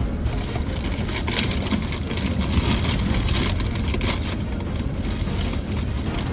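Land Rover Discovery 4 heard from inside the cabin while driving a rough, wet off-road track: a steady low engine and tyre rumble with frequent short knocks and rattles from the bumpy ground.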